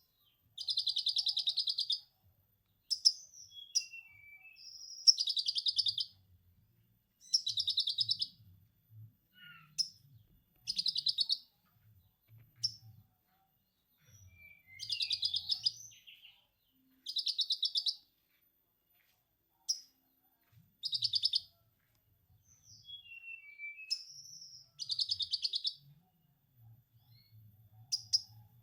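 Konin lovebird ngekek: bursts of rapid chattering trill about a second long, repeated every two to three seconds, with short squeaky chirps between them.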